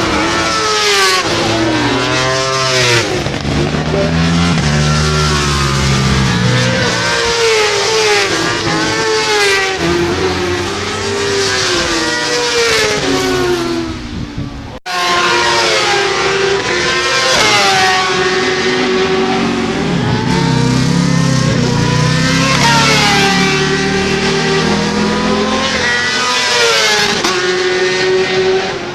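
Racing motorcycle engines at high revs on track, pitch climbing through each gear and dropping back under braking, with several machines overlapping. A sudden brief dropout comes about halfway through.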